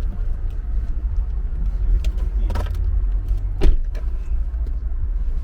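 Low rumble of a car rolling along while being pushed by hand, with two short knocks, the second and louder one about two thirds of the way in. The engine does not catch: the starter is suspected bad.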